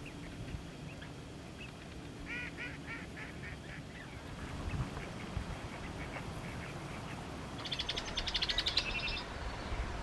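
Wild bird calls over a low marsh background: a quick series of short call notes about two seconds in, and a louder, fast run of high rattling notes near the end.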